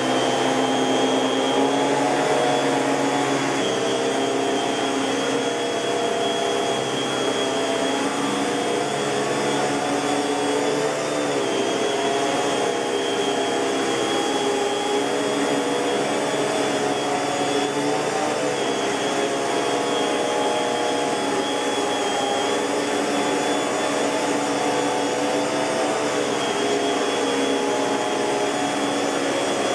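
Miele S658 Blue Moon canister vacuum cleaner running steadily, its motor giving a continuous whine with a high tone above it. The pitch wavers briefly a few times.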